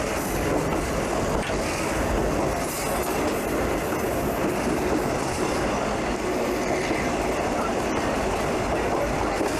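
A passenger train running along the track, with a steady noise of wheels on the rails.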